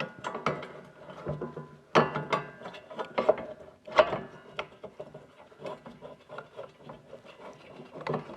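A portable bandsaw in a steel bandsaw table being turned over and handled: a string of metal clicks and rattles, with louder clunks about two and four seconds in.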